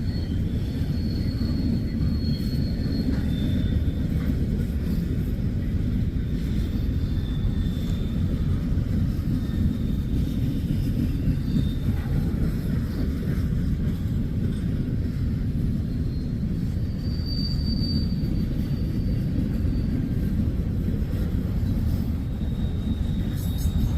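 Freight train cars rolling past: a steady low rumble of wheels on rail, with faint, thin high wheel squeals coming and going.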